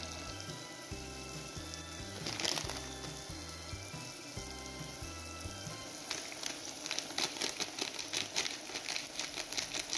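Spiced masala frying in oil in a clay cooking pot: a steady sizzle that breaks into many sharp crackles in the second half as spice powder goes in.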